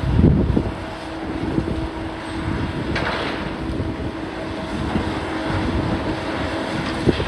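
Demolition machinery running steadily with a constant droning tone over a low rumble, with heavy knocks at the start and a sharp one near the end.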